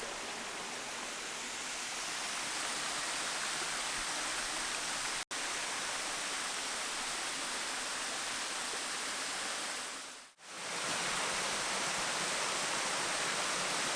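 Small waterfall pouring into a stream, a steady rush of falling water. The sound cuts out for an instant about five seconds in and dips away briefly again about ten seconds in, at edits between shots.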